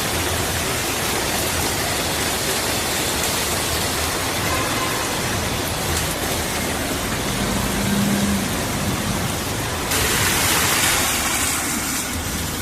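Heavy rain pouring down, a steady dense hiss that swells louder for a second or two near the end.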